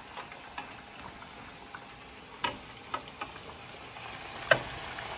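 Sweet potato chunks sizzling steadily in hot oil, being lightly pre-fried for a curry, with a few sharp clicks in the second half.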